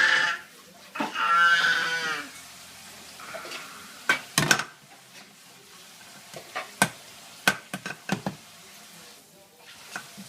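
Dishes clinking and knocking in a handful of sharp, separate hits, as from a dishwasher being loaded. About a second in, a long vocal call with a wavering pitch comes first.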